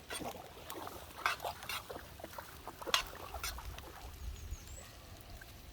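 A utensil scraping and clicking against a frying pan as onions are stirred in melted butter, with a low sizzle underneath. The strokes are sharp and come in a cluster over the first three and a half seconds, then die down.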